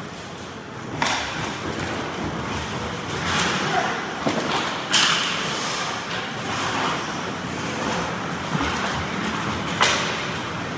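Ice hockey game play in a rink: steady scraping and rink noise, broken by three sharp cracks of puck play about one, five and ten seconds in.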